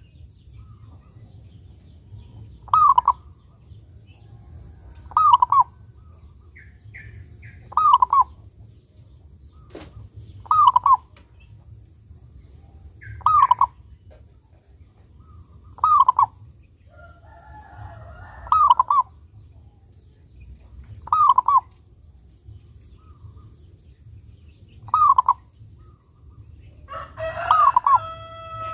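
Zebra dove (perkutut) cooing: a short phrase repeated at a steady pace about every two and a half seconds, the kind of song played to a caged perkutut to get it calling. Near the end a longer drawn-out call with several held pitches joins in.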